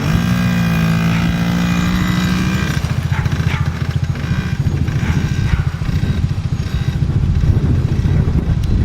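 Small 50 cc child's motorcycle engine running as it rides, holding a steady note for the first couple of seconds, then its pitch wavers and chops as the throttle changes.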